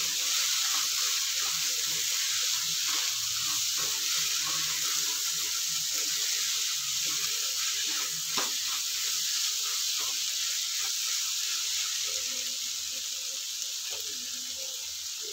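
Onion-tomato masala sizzling in a nonstick kadhai as it is stirred with a spatula, with scattered scrapes and taps of the spatula on the pan and one sharper tap about eight seconds in. The stirring stops near the end while the sizzle carries on, a little quieter.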